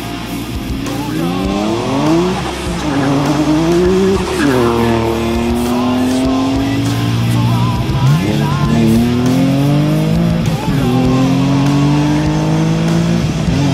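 Twin-turbo Nissan 370Z's V6 engine revving, its pitch climbing and dropping several times, with music playing over it.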